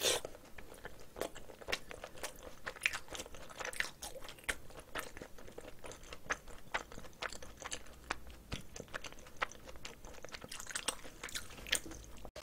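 Close-miked chewing of a mouthful of rice mixed with spicy seasoned cockles: a steady run of many small, irregular wet clicks and crunches.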